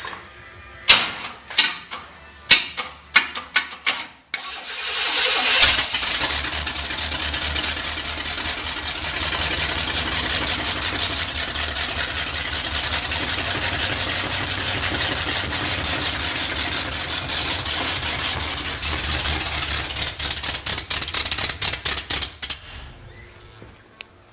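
A 305 Chevrolet small-block V8 gives a few sharp, irregular pops, catches about four seconds in and runs steadily. It turns uneven near the end and then dies away. The owner suspects carburettor issues.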